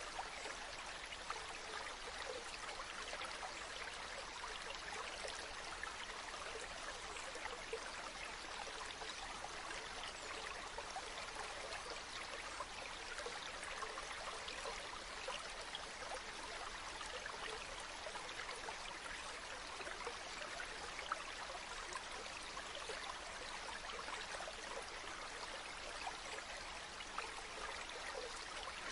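Running water: a stream or small waterfall flowing steadily, an even splashing rush with small drip-like splashes in it.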